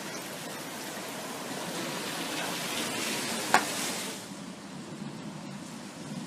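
Steady hiss of rain falling during a thunderstorm, swelling over the first few seconds. A single sharp click comes near the peak, and then the high part of the hiss drops away abruptly.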